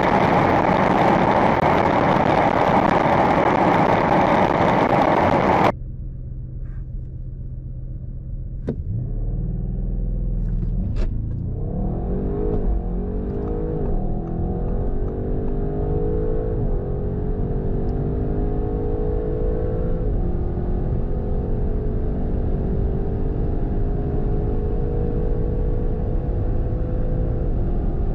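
A loud, steady rush of a car at high speed cuts off suddenly about six seconds in. Then an Audi RS6 C8's 4.0 V8 TFSI runs steadily for a few seconds and launches hard, its pitch rising through each gear and dropping at every upshift, each gear lasting longer than the one before.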